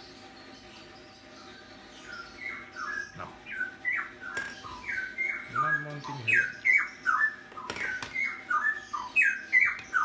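A bird calling over and over from about two seconds in, short falling notes about three a second, over a faint steady hum. A couple of sharp clicks come from the accessories being handled.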